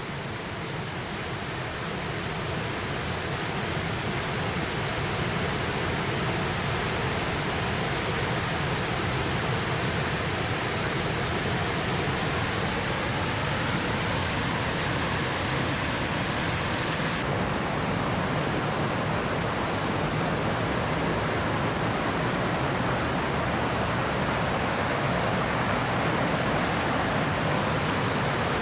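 Large waterfall pouring, a steady rush of falling water that swells up over the first few seconds.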